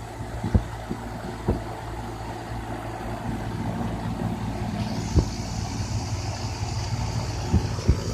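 Gibson heat pump outdoor unit running: a steady low mechanical hum with a few sharp knocks. A high hiss joins about five seconds in.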